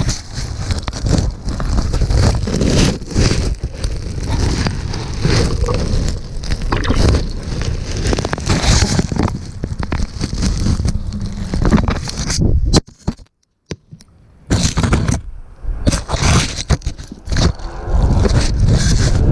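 Handling noise of a GoPro camera being held and rubbed by an elephant's trunk: loud scraping, rubbing and crackling right on the microphone. About two-thirds through it briefly drops almost to silence for about a second and a half, then the scraping resumes.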